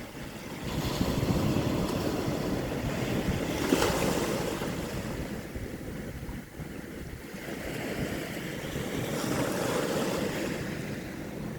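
Sea waves washing onto the shore in two surges: the first swells early, with a brief crash near the middle, and eases off, and a second builds again towards the end.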